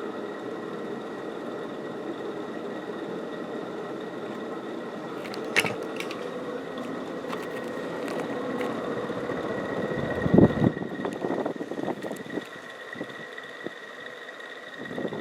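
Casablanca Delta II ceiling fan running on high speed, with a steady bearing noise and a faint whine from worn bearings that will eventually need replacing. A sharp click comes about five seconds in and a louder thump about ten seconds in, after which the sound is quieter.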